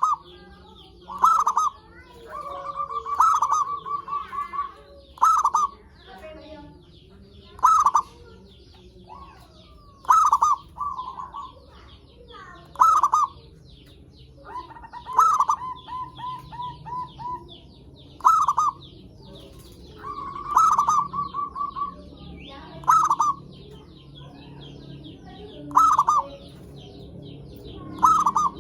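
Zebra dove (perkutut) cooing over and over: each call is a loud coo, often followed by a quick run of short staccato notes, repeated every two to three seconds. Faint high chirping runs behind it.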